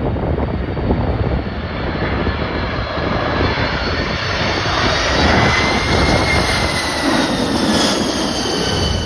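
Jet airliner flying past, its engine whine of high steady tones dropping in pitch as it goes by, over a low rumble and gusty wind buffeting the microphone.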